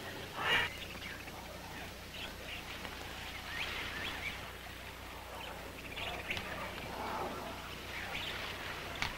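Birds chirping now and then over a faint steady hum, with a brief louder noise about half a second in.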